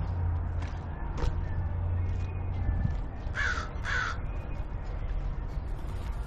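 A crow cawing twice, two short harsh calls about half a second apart, over a low steady hum that stops about three seconds in.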